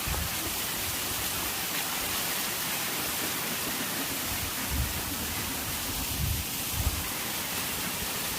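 A monsoon-fed waterfall's falling water rushing in a steady, even hiss, with a few soft low bumps.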